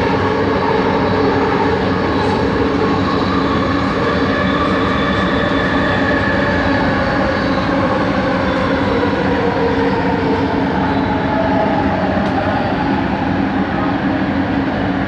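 Kelana Jaya Line train car running, heard from inside: the original linear-induction traction motors give a whine of several tones that drift slowly in pitch over a steady running rumble.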